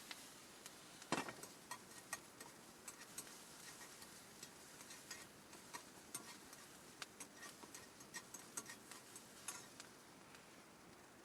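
Wood campfire crackling, with irregular sharp pops and snaps over a faint hiss; the loudest snap comes about a second in.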